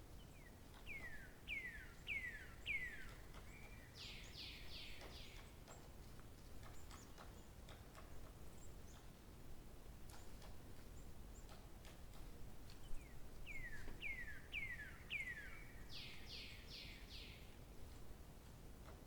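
A songbird sings the same short phrase twice, about twelve seconds apart: four quick down-slurred whistles followed by four rougher, buzzier notes. Faint steady background hiss with a few small ticks between the songs.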